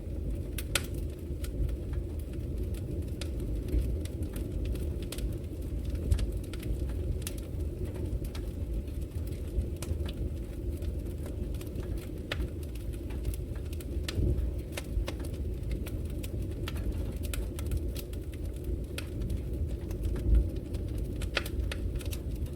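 Wood fire in a brick fireplace crackling: a steady low rumble of the flames with frequent sharp pops and snaps scattered at irregular intervals.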